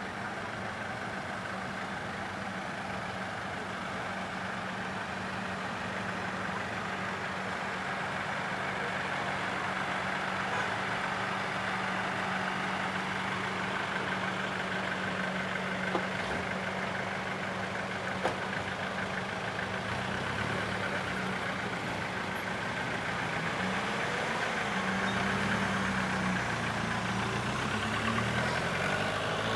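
Classic car engines idling close by with a steady low hum. In the last few seconds the engine pitch shifts and wavers as cars pull away and drive past. Two brief clicks come in the middle.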